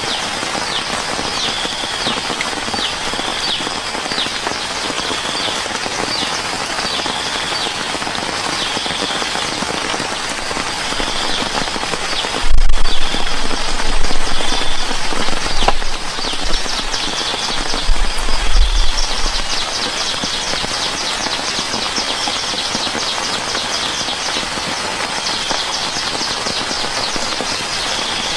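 Steady rain, with a short high call repeating about every second and a half over it. A low rumble swells for several seconds in the middle.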